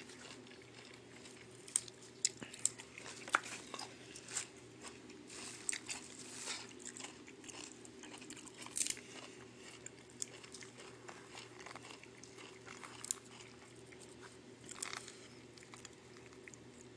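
A person chewing and biting into a fresh spring roll with crisp lettuce, herbs and bean sprouts: irregular crunches and mouth sounds, with a faint steady hum underneath.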